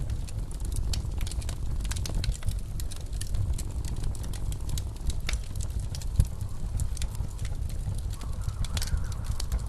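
Wood fire crackling with frequent small, sharp pops over the steady low rumble of blizzard wind.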